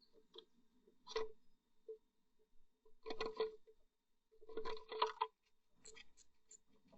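Blue tit moving about inside a nest box: short bursts of scratching and tapping on the wood and nest material, about a second in, around three seconds and around five seconds, with faint ticks near the end. A faint steady electrical hum runs underneath.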